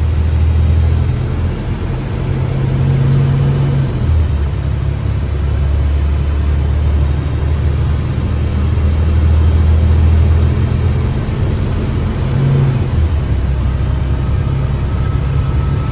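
Diesel engine of an International WorkStar 7300 bucket truck pulling away under load from inside the cab, with its Allison automatic transmission shifting up through the gears. The engine note climbs, then drops at each upshift, a few times over.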